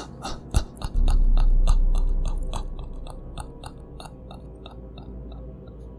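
A rapid, even series of sharp clicks, about four a second, growing fainter and stopping shortly before the end, over a low steady drone that comes in about a second in: a sound-effect track.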